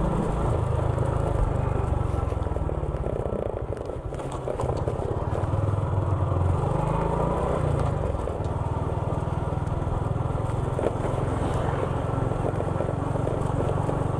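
Motorcycle engine running while riding, dipping briefly about four seconds in and again about eight seconds in.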